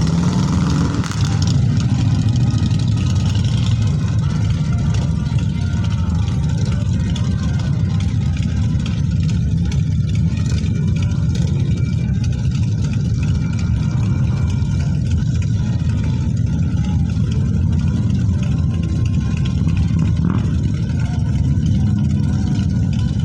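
Engines of a large group of motorcycles running together in a steady low rumble.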